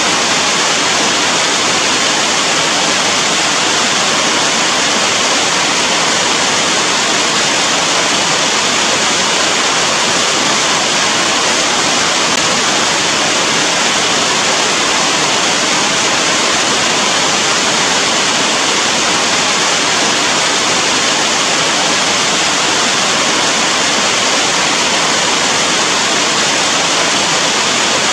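Heavy rain falling, a dense, even hiss at a constant level with no single drops standing out.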